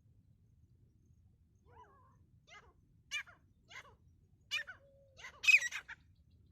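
Grey francolin calling: a run of short, sharp calls that begins about two seconds in and grows louder, with the loudest, harshest call near the end.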